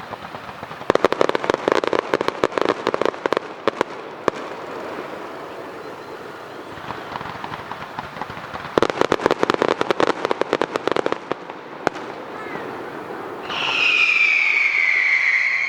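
Aerial fireworks crackling: two dense runs of rapid sharp cracks, each lasting about three seconds, a few seconds apart. Near the end comes a loud whistling tone that falls slightly in pitch.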